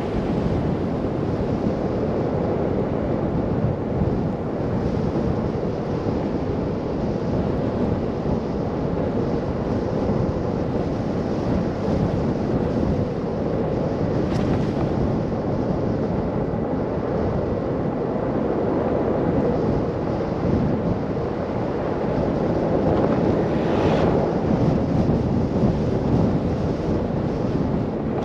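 Steady rush of blizzard wind, a dense even roar, with a couple of brief hissy flares.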